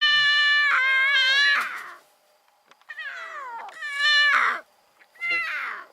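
Young lion cub calling: three high, wavering mewing cries. The first is the longest, at almost two seconds, and each one slides down in pitch at its end.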